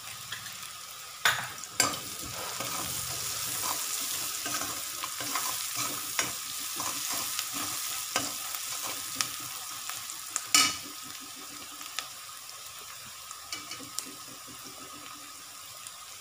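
Chopped onions with spices frying in oil in a pan, a steady sizzle, while a spoon stirs them and knocks sharply against the pan a few times, loudest about ten and a half seconds in. The onions are being fried toward golden brown.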